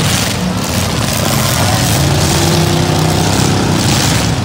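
Several V8 demolition derby cars running and revving together in a loud, steady din, with one engine briefly rising and falling in pitch about halfway through.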